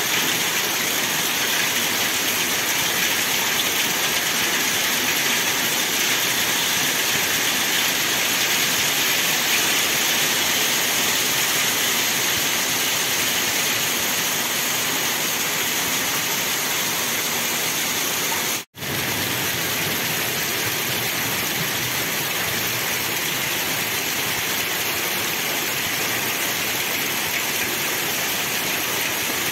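Heavy rain mixed with hail, falling steadily as a dense, even hiss. The sound cuts out for a split second about two-thirds of the way through.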